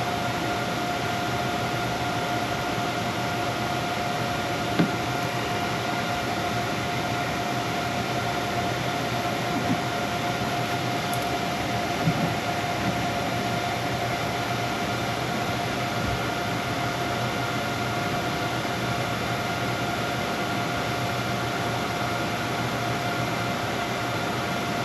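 Steady fan noise with a constant hum, with a few faint clinks.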